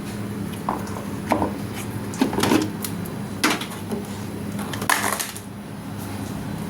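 Hard objects knocking and clattering in a handful of irregular strikes, the loudest cluster about five seconds in, over a steady low hum.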